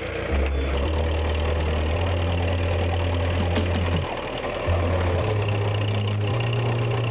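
Tractor engine running with a steady low drone that shifts in pitch a few times.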